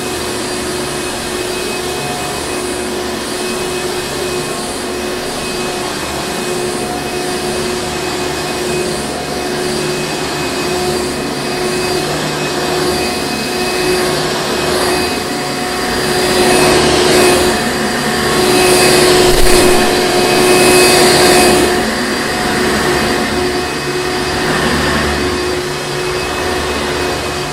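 Hoover Encore Supreme upright vacuum cleaner running steadily with a constant motor whine. It grows louder for a few seconds around the middle, then settles back.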